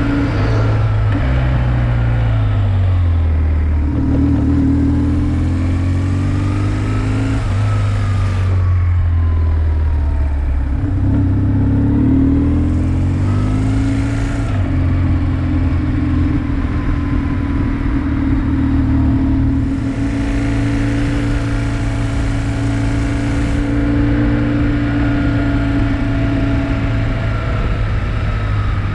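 BMW motorcycle engine running under way, its pitch falling and rising several times as the bike slows, shifts and accelerates.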